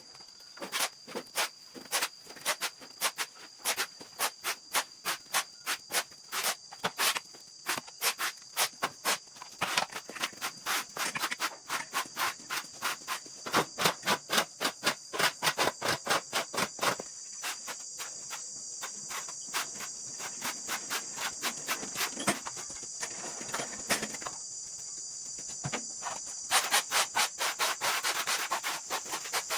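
Rapid, repeated rubbing strokes in runs with short pauses, the kind made by scrubbing or sweeping a hard surface. A steady high-pitched insect drone carries on behind them.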